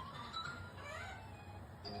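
An otter squeaking in short, rising chirps over background music.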